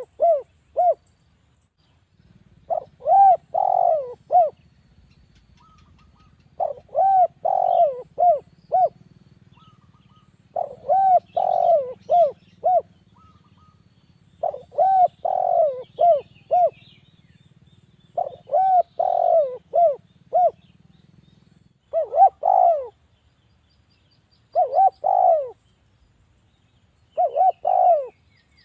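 Spotted dove (derkuku) cooing: a phrase of three to four rising-and-falling coos, repeated about every four seconds.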